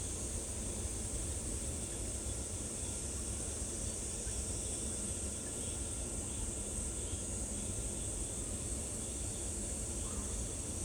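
Steady, unbroken high-pitched insect buzz over a low rumble, with no clear bird calls.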